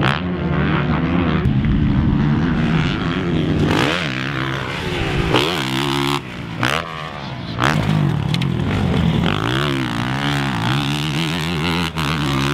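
Honda CRF450R motocross bike's single-cylinder four-stroke engine revving hard, its pitch climbing and dropping again and again as the bike is ridden.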